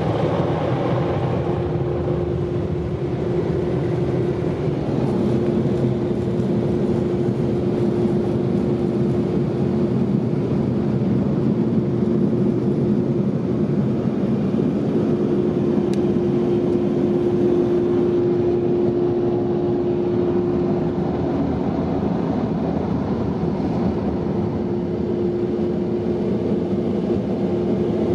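Ryko Softgloss MAXX rollover car wash's dryer blowers running, a steady rushing roar with a constant whine.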